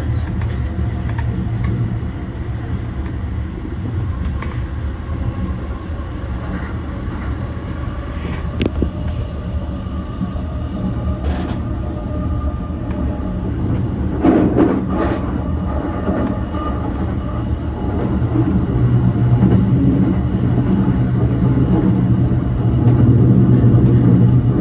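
E235 series electric train running along the line, heard from inside the car: a steady low rumble and hum, with a short cluster of knocks about two-thirds of the way through. The hum grows louder over the last few seconds.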